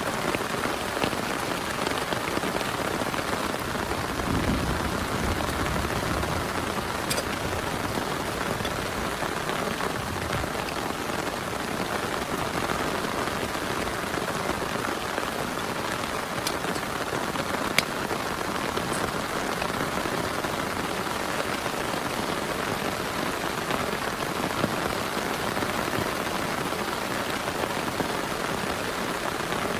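Heavy rain falling steadily, with scattered sharp drop impacts standing out from the hiss. A brief low rumble comes about four seconds in.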